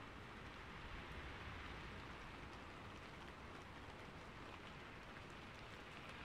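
Rain falling steadily, a faint even hiss with light scattered drop ticks.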